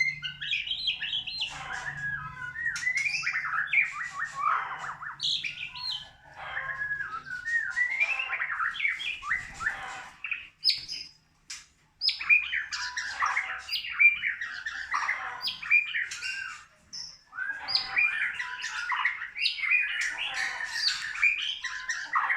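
White-rumped shama (murai batu) singing long, varied runs of whistled phrases that glide up and down, with short pauses a few times.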